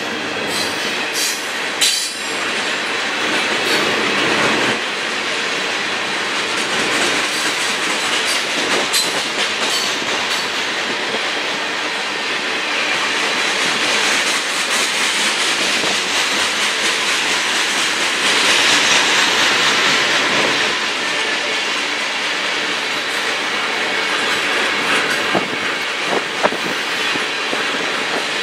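CSX freight train rolling past, its wheels clacking over the rail joints with some wheel squeal, a steady rumble throughout.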